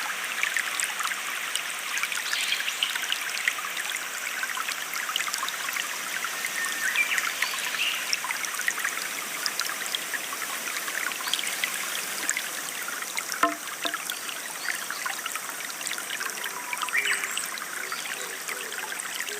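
Shallow stream water trickling and splashing steadily over stones.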